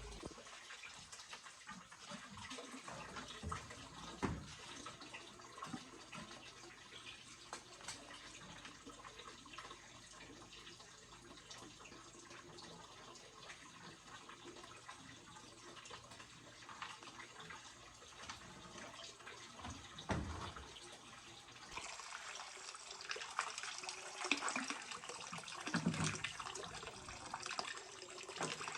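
Water running and splashing, with scattered knocks, getting louder and busier in the last several seconds.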